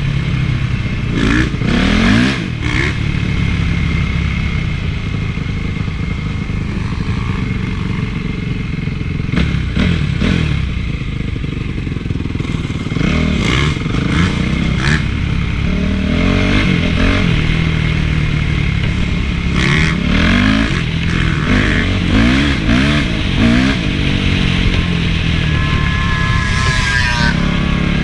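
Honda CRF450 four-stroke single-cylinder motocross engine being ridden hard, its pitch repeatedly rising and falling as the rider revs and eases off the throttle.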